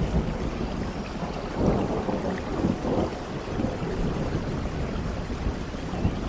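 Heavy rain falling steadily with a low, rolling rumble of thunder that swells about two seconds in.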